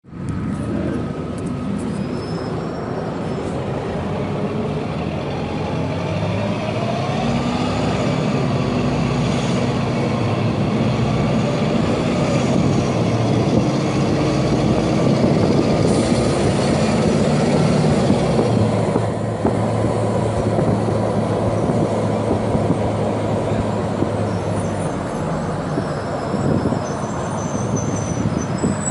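Agrale MT 17.0 LE city bus with a four-cylinder diesel engine, running on the road. The engine's pitch rises and falls several times as it pulls and changes gear, and it settles to a steadier lower note about two-thirds of the way through.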